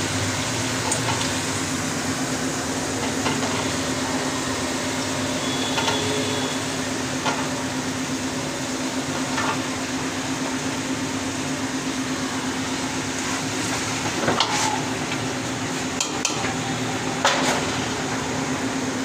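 Food frying and sizzling in a cooking pot as it is stirred, with a few sharp utensil clinks against the pot and a steady low hum underneath.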